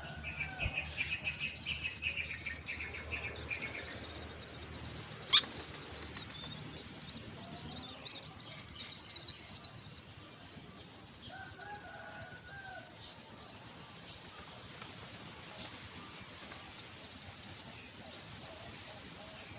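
Birds chirping, with a quick run of repeated chirps over the first four seconds and thinner high chirps after that. A single sharp click about five seconds in is the loudest sound.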